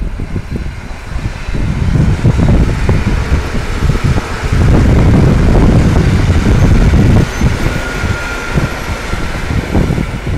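Heavy wind buffeting the microphone over the running of an SKM electric commuter train pulling out of the station. The noise is loudest around the middle, and a faint steady whine comes in late on.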